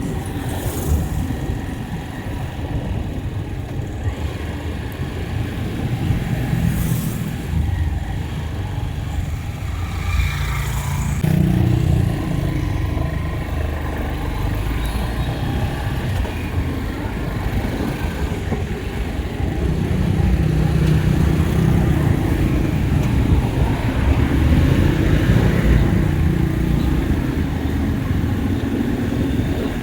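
Engine and road noise of a moving road vehicle, a steady low rumble that shifts about 11 seconds in and grows a little louder after about 20 seconds.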